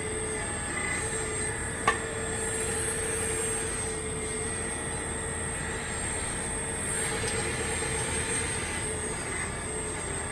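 RC CAT 336D2 model excavator running, giving a steady mechanical whine whose pitch wavers a little, with one sharp click about two seconds in.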